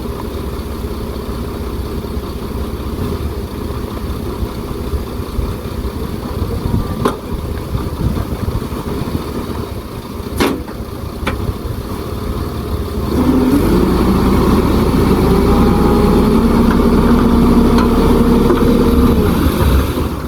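Diesel engine of heavy earthmoving machinery running steadily, with two sharp knocks in the first half. About two-thirds of the way in the engine gets clearly louder, with a steady droning tone.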